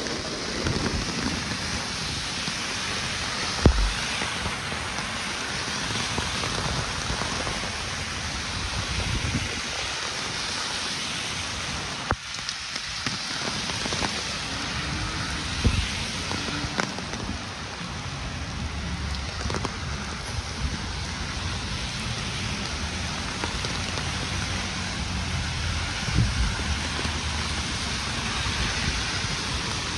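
Steady rain falling on pavement, an even hiss, with a few short sharp knocks at about four, sixteen and twenty-six seconds in.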